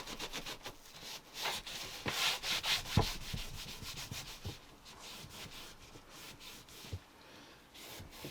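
Quick back-and-forth scrubbing of a cupboard surface with a sugar soap wipe, several strokes a second, scrubbing at stains. There is a single knock about three seconds in, and the strokes grow lighter and sparser in the second half.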